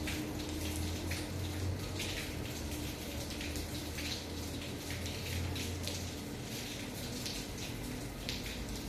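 Light rain falling, with many small irregular drip and drop ticks over a steady watery hiss, and a low steady hum underneath.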